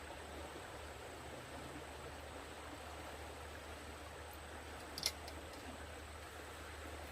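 Steady rush of running stream water, with one sharp click about five seconds in.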